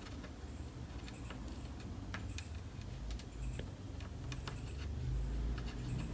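Faint, irregular light clicks and taps of small hand tools on an inverter circuit board while a burnt diode is being replaced, over a low rumble.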